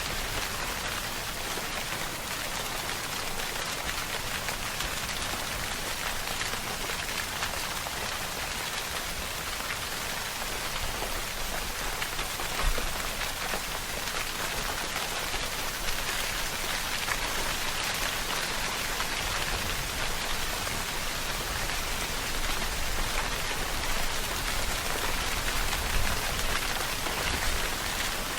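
Steady rainfall: a dense, even hiss of raindrops on surfaces, with a couple of brief louder spikes, about halfway through and near the end.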